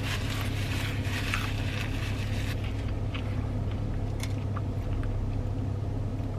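A person chewing a mouthful of KFC Famous Bowl, with wet, crunchy mouth sounds that are busiest in the first couple of seconds and give way to scattered smaller clicks. A steady low hum runs underneath.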